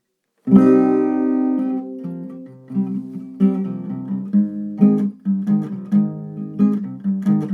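Acoustic guitar beginning a song's intro: a chord strummed about half a second in and left ringing as it fades, then a steady rhythmic strumming pattern from about three seconds in.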